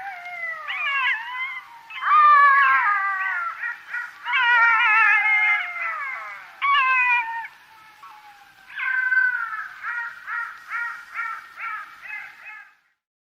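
Black-backed jackal calling: wailing, sliding howls, then a run of short yelps at about three a second near the end.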